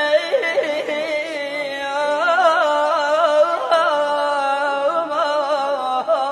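A solo voice sings a long, drawn-out Arabic melodic line, holding and ornamenting notes with a wavering vibrato.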